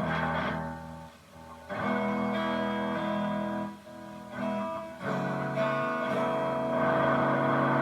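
Electric guitar, a Strat-style copy, played through a distortion pedal and mini amp head into a small cab. It plays sustained, ringing chords with a sliding note at the start and two brief gaps where the sound drops away.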